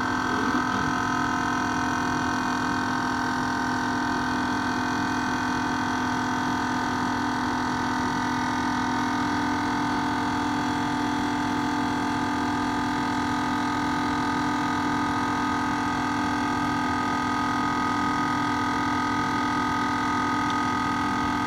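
12-volt air compressor running steadily, its motor and pump giving a constant hum with a whine over it, as it pumps the tank from about 65 to 75 psi.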